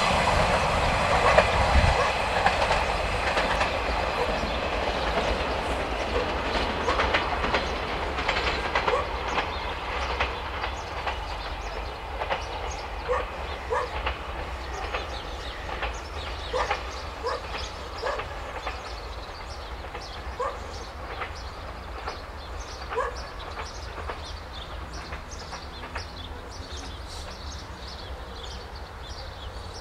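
Siemens Desiro diesel multiple unit passing close and pulling away, its running rumble fading steadily. Its wheels click and knock over rail joints and points as it recedes.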